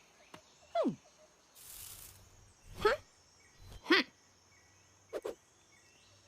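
Cartoon jungle ambience: a steady high insect chirring, broken by short sound effects. About a second in there is a quick falling glide, then a brief hiss, and later several short warbling calls.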